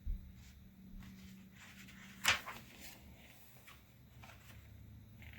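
Quiet handling of a paper oracle card deck and its guidebook: soft rustles, with one sharper rustle about two seconds in.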